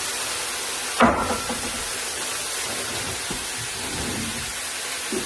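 Chicken and vegetables sizzling steadily in a hot electric wok, with a single knock about a second in.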